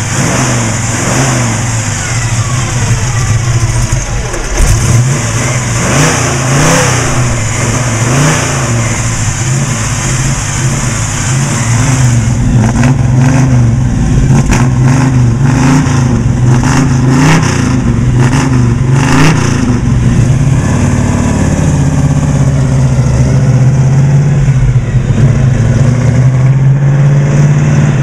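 1970 Chevy Nova SS's rebuilt 396 big-block V8, breathing through ceramic-coated headers, running under way. Its engine speed rises and falls again and again through the middle, then holds steady near the end.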